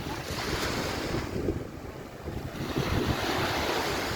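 Surf washing on a beach, swelling twice with a dip between, with wind buffeting the microphone.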